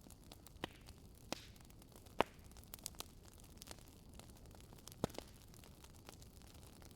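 Wood fire burning in a fireplace: scattered sharp crackles and pops over a faint steady hiss, the loudest pop a little over two seconds in and another strong one about five seconds in.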